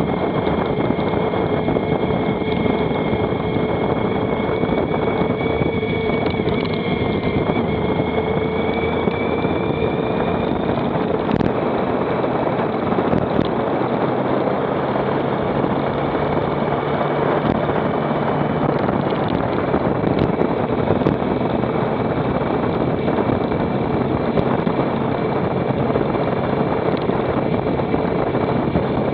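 Motorcycle on the move: engine running at a steady speed under a heavy, even rush of wind noise, with a steady whine that shifts slightly in pitch about a third of the way in.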